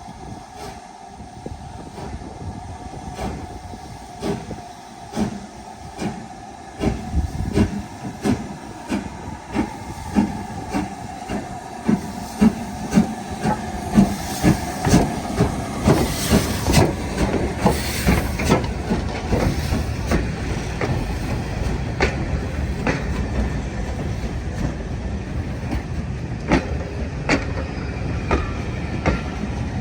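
Passing train's wheels clicking rhythmically over the rail joints, about two clicks a second, loudest in the middle, then settling into a steady rumble with a few scattered clicks near the end.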